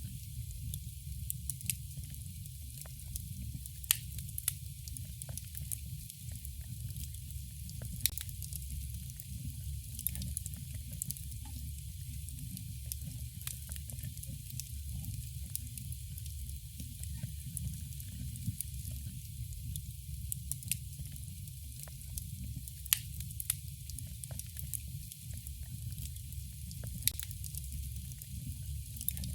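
Wood campfire burning: a constant fizz of small crackles over a steady low rumble, with a few louder, sharper pops scattered through.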